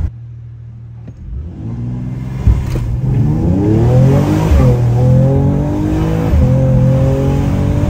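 Stage 1-tuned Mercedes-AMG E53's turbocharged inline-six, heard from inside the cabin, pulling hard under full throttle. A low hum gives way to engine pitch climbing steadily. There is a sharp thump about two and a half seconds in, and the pitch dips at two upshifts, about halfway and three-quarters through, before climbing again.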